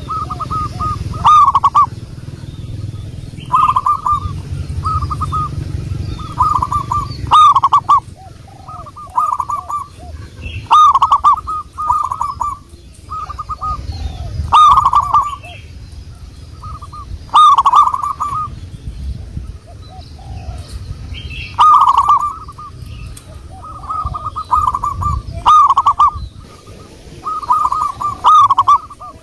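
Zebra doves singing: short, high coos in quick clusters of two or three, repeating every second or two over a low background rumble.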